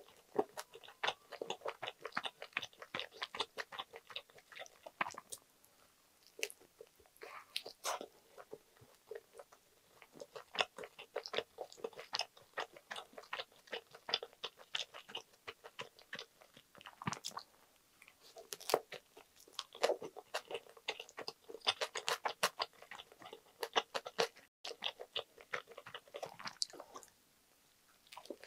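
Close-miked chewing and biting of a toasted sandwich of buttered toast, crunchy lettuce, spam and egg: irregular clusters of small crunches and mouth clicks.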